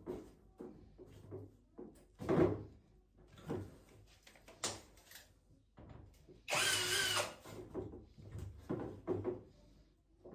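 A cordless drill-driver runs once for about a second, about six and a half seconds in, amid scattered knocks and clatter of tools and metal parts being handled during a washing machine drum and bearing replacement.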